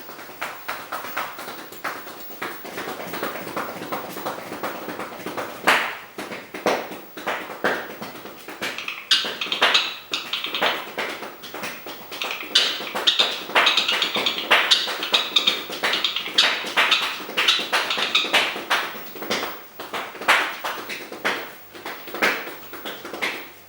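Pet parrot drumming: a fast, uneven run of taps and knocks, with a brighter, higher layer mixed in through the middle stretch.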